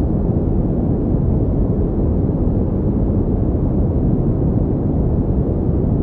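Pink noise, generated for sleep: a steady, unchanging rush, deep and rumbling, with most of its weight in the low end.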